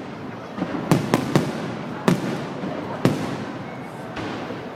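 Fireworks bursting overhead: a run of sharp bangs about a second in, two more spaced about a second apart, over a steady hiss and crackle.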